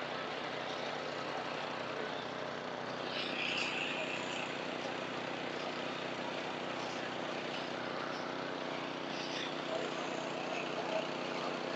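Well-drilling rig's engine running steadily, a constant drone.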